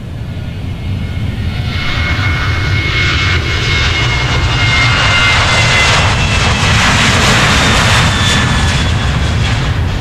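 Airliner's engines passing close by: the engine noise swells over the first few seconds, carrying a high whine that slowly falls in pitch, then eases near the end.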